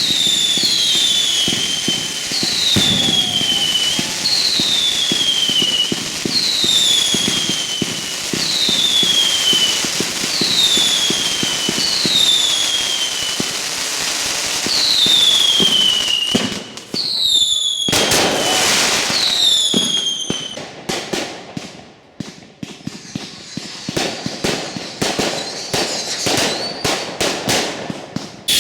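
Fireworks going off. For the first half, a run of falling whistles, about one every second and a half, plays over dense crackling. After that come sharp bangs, a large burst a little past halfway, and more crackle.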